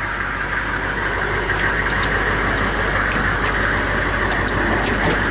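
A 6.2-litre diesel engine idling steadily, with a few faint clicks over it.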